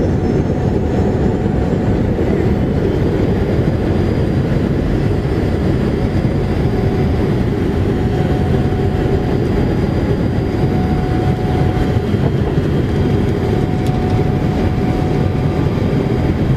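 Steady low rumble of a ship under way: engine noise and rushing air, even and unbroken.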